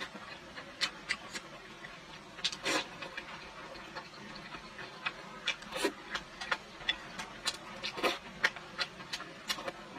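Close-up chewing and wet mouth sounds of someone eating fatty pork belly: irregular sharp lip smacks and clicks, a few a second.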